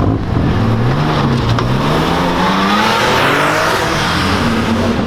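A sports car engine revving and accelerating past, its pitch climbing and loudest about three seconds in.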